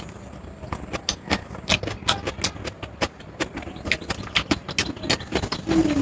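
Close-up eating sounds: chewing, with quick wet mouth clicks and smacks several times a second.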